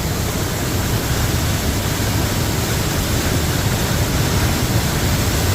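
Cedar Cliff Falls, a manmade waterfall on Massie Creek in flood, with far more water than usual pouring over it: a steady, loud rush of falling water.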